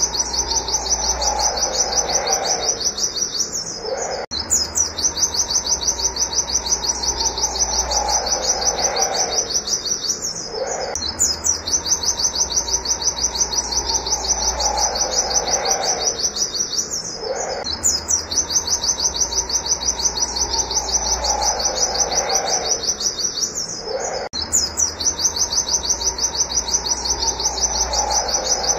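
White-eye (pleci) singing its fast 'wit wit' shooting song: long runs of rapid, high, repeated notes, each about six seconds, broken by brief pauses. A fainter, lower falling sound recurs alongside each run.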